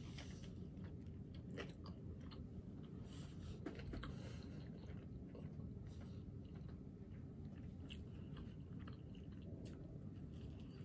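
Close-up eating sounds: a person biting into a Popeyes spicy fried chicken sandwich and chewing it, with faint, scattered wet mouth clicks. She takes another bite near the end.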